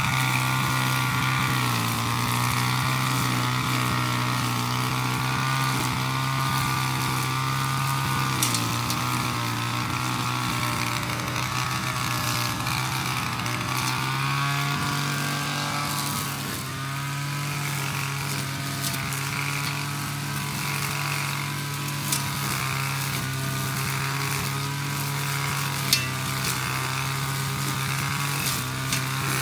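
25 cc two-stroke brushcutter engine (BIGM BC260T) running at high revs while cutting grass, its pitch dipping and picking up again as it works. A few sharp clicks stand out over the engine.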